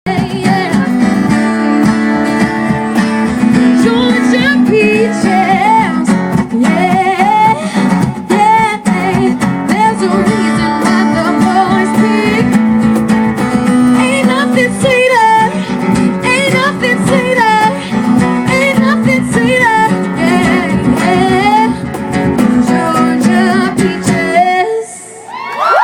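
Live music: a singer with strummed acoustic guitar accompaniment, the song ending about a second before the end.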